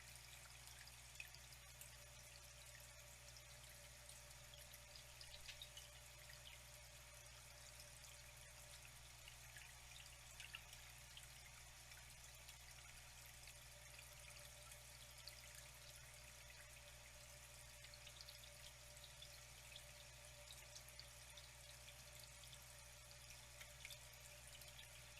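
Faint, steady trickle of flowing water with many small drips and splashes.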